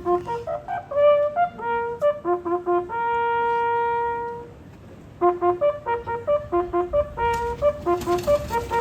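A lone bugle playing a slow remembrance call for the war dead, using only its few natural notes: short repeated notes, one long held note about three seconds in, a short pause, then more short notes.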